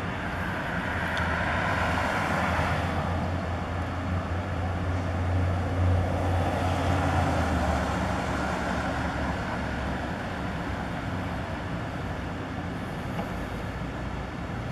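Steady road traffic noise with the low hum of a nearby vehicle engine, which is strongest in the first half and fades away after about eight seconds.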